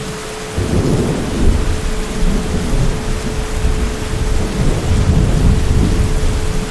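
Heavy steady rain with a deep thunder rumble that breaks in about half a second in and rolls on, swelling and easing, through the rest.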